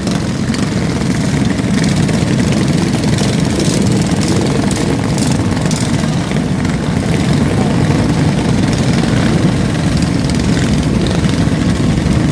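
Several vintage mini bike engines running together in a steady, dense drone.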